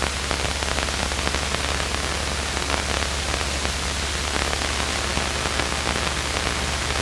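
Steady hiss of a light aircraft's cockpit intercom audio feed, with a low, even drone underneath from the Luscombe's engine and propeller in cruise.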